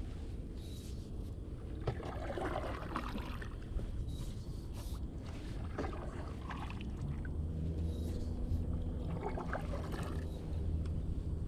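Oars dipping and splashing as a small fiberglass rowboat is rowed, a stroke every three to four seconds over a steady low rumble. A low steady hum joins about halfway through.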